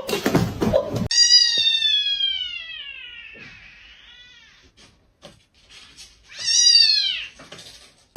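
A cat meowing in long, drawn-out calls. About a second in comes one long meow that slowly falls in pitch and fades over a couple of seconds; a faint short call follows, then a second loud meow that rises and falls near the end.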